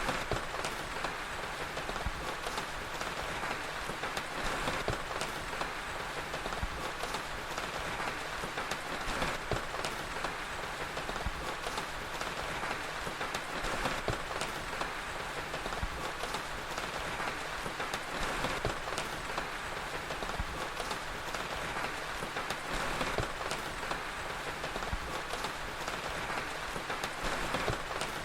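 Steady rain falling, with scattered pops and crackles of a wood fire throughout.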